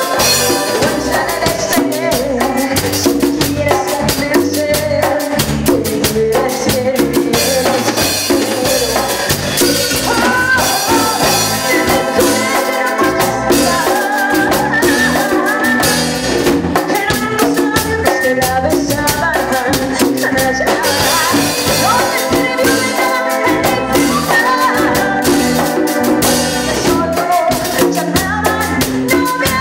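Grupero band music: a drum kit keeps a steady beat under a melody line.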